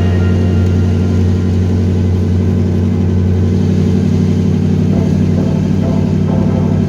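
A car engine running steadily with a deep, even rumble; no revving.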